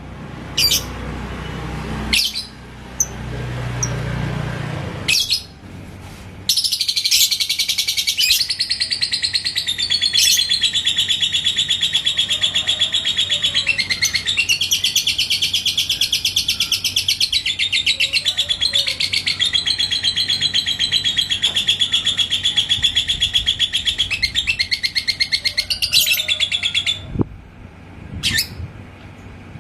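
Lovebird singing 'ngekek': a long, unbroken, very rapid chattering trill that starts about six seconds in and runs for about twenty seconds. A few short sharp chirps come before and after it.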